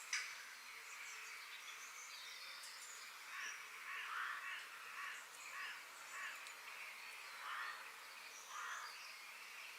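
Outdoor nature ambience of birds calling over a steady hiss. A run of lower, rasping calls comes from about three seconds in, among scattered high chirps. A sharp click sounds right at the start.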